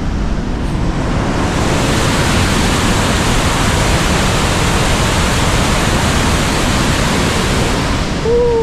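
Upper Falls of the Yellowstone River: a loud, steady rushing roar of falling water that swells about a second in. A brief falling vocal sound is heard near the end.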